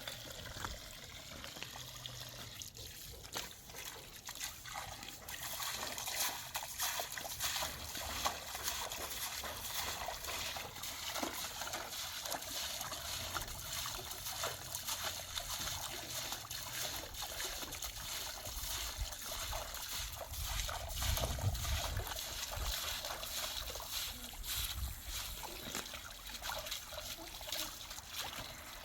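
Water trickling steadily, with a low rumble about two-thirds of the way through.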